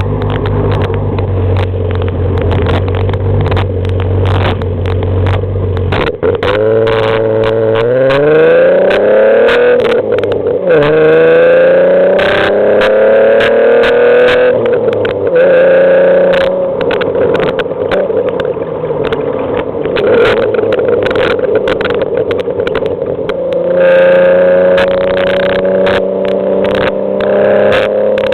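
Alfa Romeo GTV6's V6 engine through an Ansa exhaust, heard from a car-mounted rig. It runs steadily at first, revs up through the gears from about seven seconds in with a gear change near ten seconds, then cruises and picks up again near the end. Frequent short clicks sound throughout.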